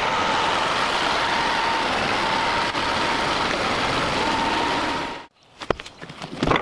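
A motor-driven machine running steadily with a constant whine, cutting off abruptly about five seconds in, followed by a few sharp knocks.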